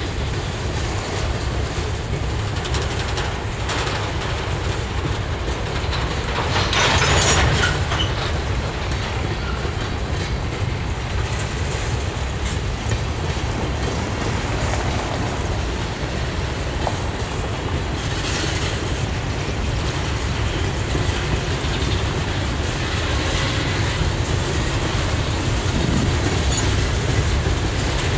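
Freight cars of a mixed freight train rolling past: a steady rumble of steel wheels on rail with clickety-clack over the rail joints, and a louder burst of wheel noise about seven seconds in.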